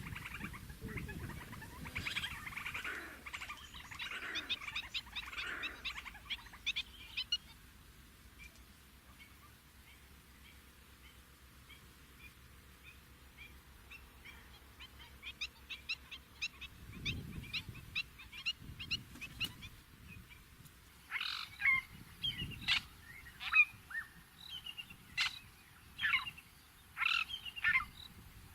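Fork-tailed drongo calling: a rapid chatter of chirps, then fainter chirping, then a run of loud, sharp, separate calls over the last several seconds.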